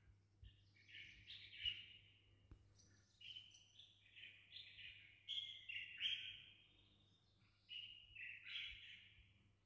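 Faint bird song: a run of short chirps and whistled notes that step up and down in pitch, loudest about a second and a half in and again around six seconds in.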